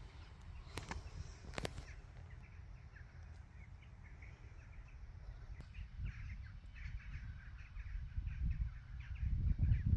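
Birds calling in short chirps, repeated irregularly from about three seconds in, over a low wind rumble on the microphone that grows louder near the end. Two sharp clicks come in the first two seconds.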